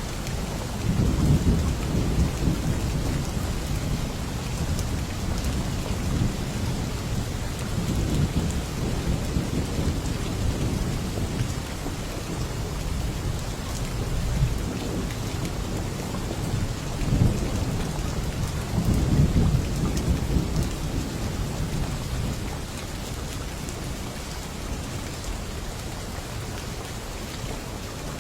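Steady rain falling with rolls of thunder rumbling low underneath, strongest about a second in and again past the middle, then easing off near the end.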